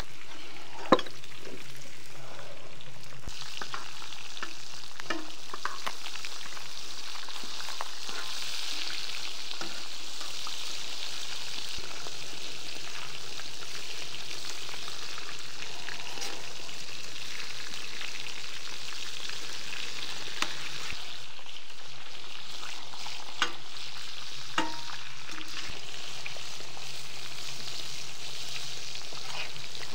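Food frying in hot fat: a steady sizzling hiss, with a few sharp clicks and knocks, the loudest about a second in.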